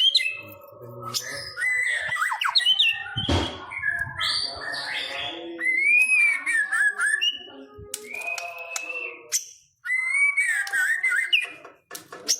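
White-rumped shama (murai batu) singing a varied song of clear whistles, rising and falling glides and harsher chattering notes, with a couple of short breaks near the end.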